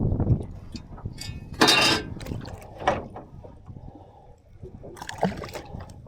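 Intermittent water splashes and knocks while a caught trout is handled at the water's edge. The loudest bursts come about two seconds in and again about five seconds in.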